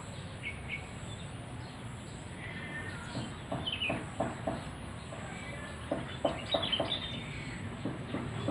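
Wild songbirds chirping in a tree: scattered short calls, with quick runs of sharp chirps about three seconds in and again near the end.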